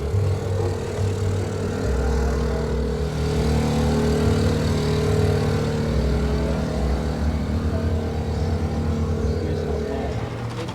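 A car engine running, with a steady low rumble.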